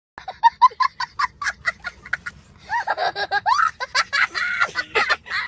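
A person laughing hard in a quick run of short "ha" bursts, then laughing on with voiced, wavering sounds.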